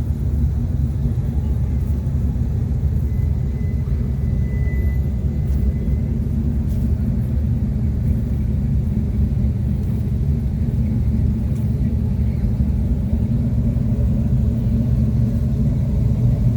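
A vehicle engine running steadily with a low, continuous rumble, getting slightly louder near the end.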